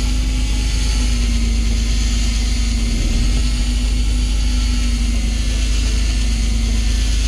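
Fishing boat's engine running steadily, a constant low rumble with a steady hum.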